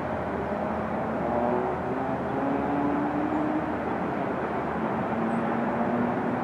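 Train running, a steady rumble with faint tones that shift slightly in pitch.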